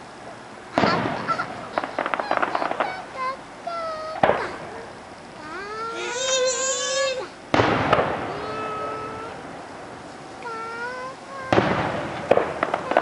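Aerial firework shells bursting four times, a few seconds apart, the first and last bursts followed by crackling. Between the bursts a small child's high voice whines and squeals.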